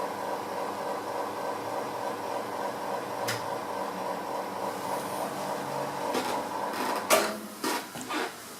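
Espresso machine pump humming steadily while a shot is pulled through a naked portafilter, with a single click about three seconds in. The pump cuts off about seven seconds in, followed by a few short knocks.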